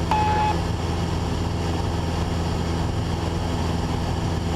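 Cessna 172's four-cylinder piston engine and propeller droning steadily in flight, heard from inside the cabin. A short beep sounds right at the start.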